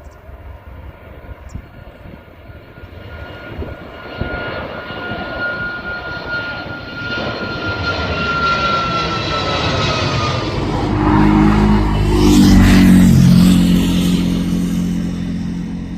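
Airliner passing low overhead: its engine whine builds steadily and drops in pitch as the aircraft goes by about twelve seconds in, leaving a deep rumble that slowly fades.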